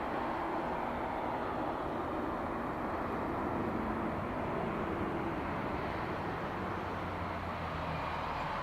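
Steady jet engine noise from a Boeing 737-800's CFM56-7B turbofans, a constant rushing sound with no sudden changes.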